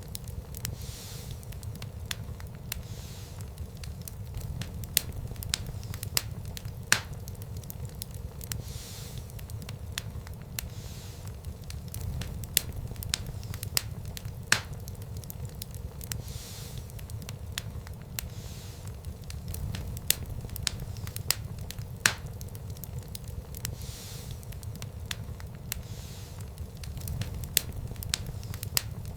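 Wood fire burning in a fireplace, crackling with sharp, irregular pops and snaps over a steady low rumble, and a soft hiss that swells now and then.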